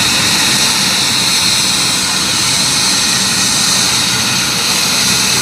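Helicopter's turbine engine and rotor running loud and steady, with a high turbine whine over a low drone.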